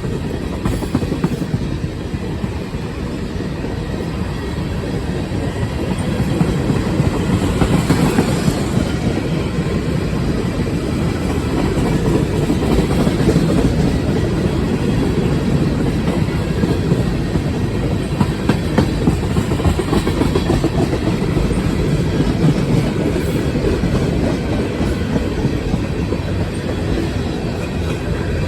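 Freight train cars rolling past close by: a steady low rumble of steel wheels on rail, with repeated clacks as the wheels cross rail joints.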